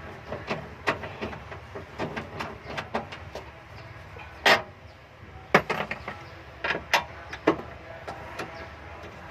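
Irregular sharp clicks and knocks of tools and parts being handled, a few louder knocks about halfway through, over a steady low background hum.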